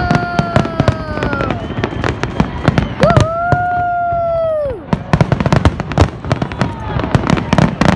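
Fireworks grand finale: dense, rapid crackling and banging throughout, with long whistling tones over it. One whistle slowly falls and fades in the first second and a half; another rises sharply about three seconds in, holds, then drops away near five seconds.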